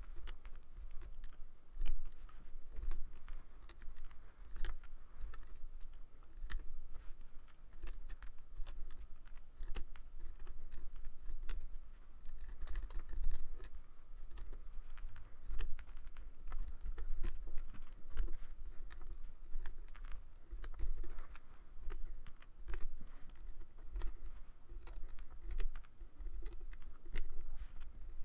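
Rubber loom bands being stretched and snapped onto the plastic pegs of a Rainbow Loom: quick, irregular clicks and taps, sped up, over a low rumble.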